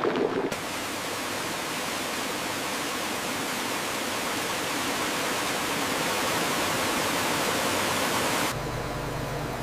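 A steady rushing hiss that swells slightly and then cuts off abruptly near the end, giving way to a low hum.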